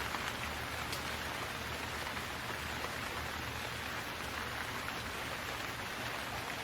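Rain falling steadily: an even hiss of drops with nothing else standing out.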